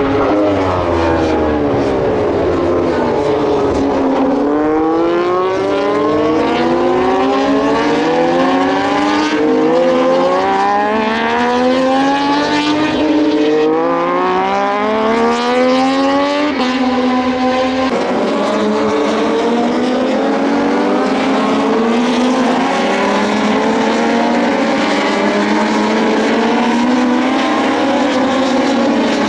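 Several Moto2 racing motorcycles, Triumph 765 cc three-cylinder engines, accelerating hard past the grandstand. Their engine notes climb and drop back again and again as they shift up through the gears, the bikes overlapping one another.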